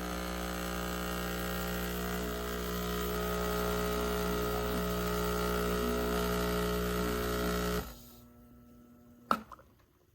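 Neretva espresso machine's pump buzzing steadily, a mains-frequency hum, then cutting off suddenly about eight seconds in. A single brief, sharp sound follows about a second later.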